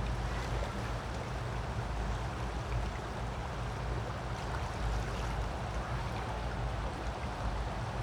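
Creek water flowing steadily, an even rush without breaks, with a low rumble underneath.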